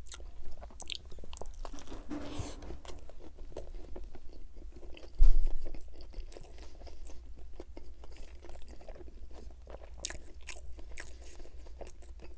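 Close-miked chewing and biting of a Whopper Jr. burger: the soft bun and crisp lettuce crunch, with wet mouth clicks throughout and a bite taken early on. A single low thud a little after five seconds in is the loudest sound.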